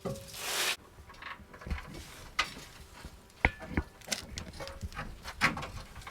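Scattered metallic clinks and knocks as a gearbox hung from an engine crane is worked into position, with a short rushing hiss at the start. One sharp clink about three and a half seconds in rings briefly.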